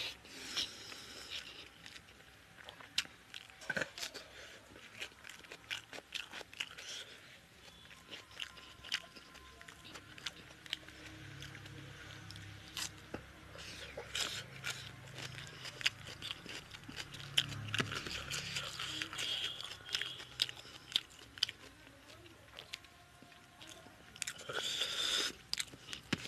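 A person chewing and crunching mouthfuls of rice, chicken curry and raw salad, with many sharp wet mouth clicks and smacks in uneven clusters.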